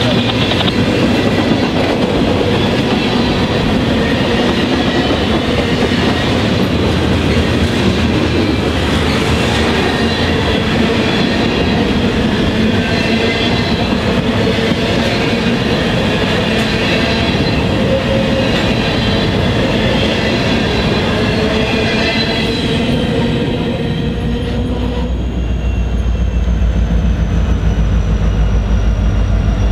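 Freight cars rolling past, their steel wheels running on the rails with thin steady squealing tones. Near the end this gives way to the steady low rumble of an approaching Norfolk Southern diesel locomotive.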